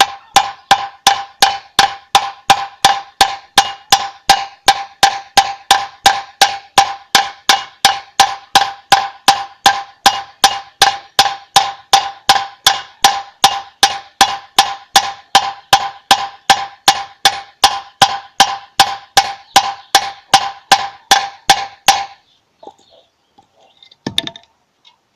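Steady, even knocking on a hard object that rings with a clear pitch, a little over two knocks a second, stopping abruptly about 22 seconds in.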